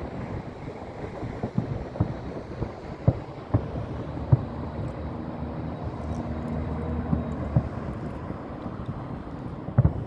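Fireworks shells bursting as sharp bangs at irregular intervals, about eight in ten seconds, over a steady rumble of wind on the microphone.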